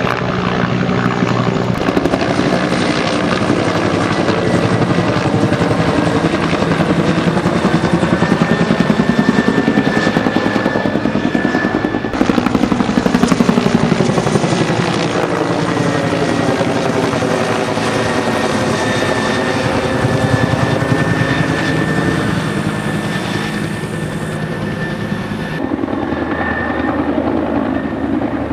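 Firefighting helicopter running loud and steady in flight, a continuous rotor and engine noise with a steady high tone. The sound swells and sweeps as the helicopter passes close, about ten to fourteen seconds in, and changes abruptly near the end.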